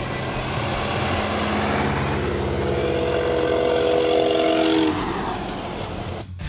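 Vintage cars driving by, a Ford Model T passing close with its four-cylinder engine running. The sound grows louder to a peak about five seconds in, then drops suddenly.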